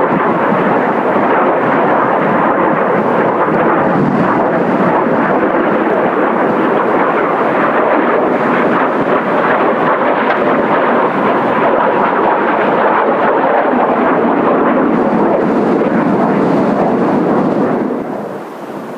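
Jet roar from the Blue Impulse formation's Kawasaki T-4 trainers flying overhead, a loud steady rush with a faint whine in it that fades near the end.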